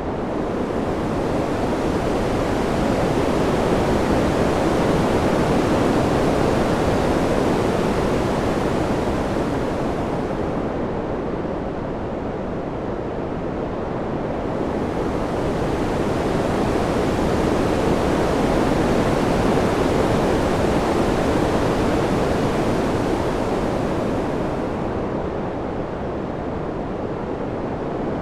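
Wind noise, an even hiss with no gusts or tones, slowly swelling and easing twice; the treble comes in as it rises and falls away as it eases.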